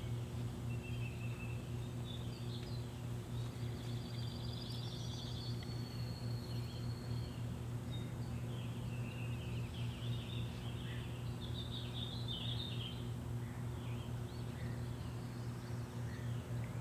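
Birds chirping outdoors, with a trill a few seconds in and a cluster of chirps later, over a steady low hum.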